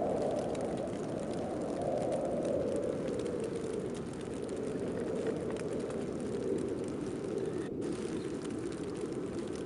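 Snowstorm wind blowing as a dense, steady rushing noise that swells a little about two seconds in and eases slightly after, with a faint fine crackle above it.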